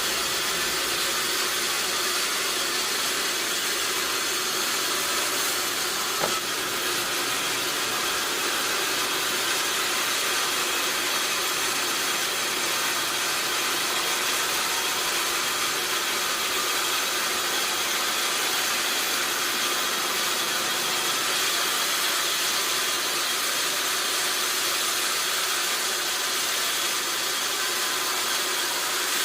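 Sawmill machinery running steadily as an even, hissing din that does not change. There is one short click about six seconds in.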